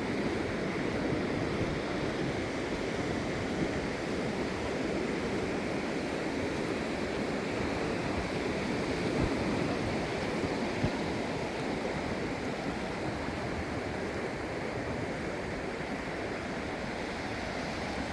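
Ocean surf washing steadily in a continuous rush of breaking waves.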